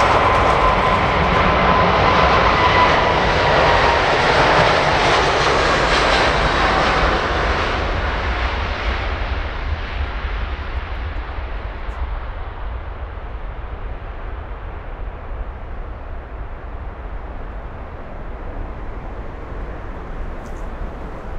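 Jet airliner passing close by, its engines' steady noise carrying a whine that falls slightly in pitch as it goes past. About seven seconds in the sound begins to fade, thinning and dying away as the aircraft moves off.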